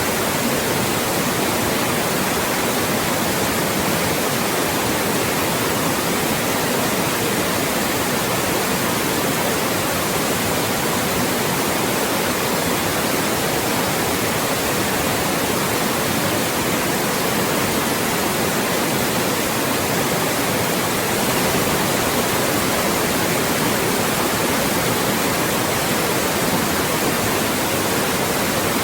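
Loud, steady synthetic white noise, an even hiss across the whole range with little bass, that does not change.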